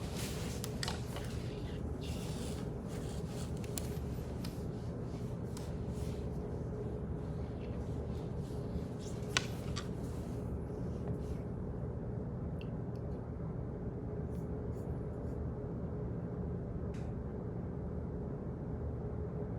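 Office background ambience: a steady low hum with scattered small clicks and taps at irregular intervals, one sharper click about nine seconds in.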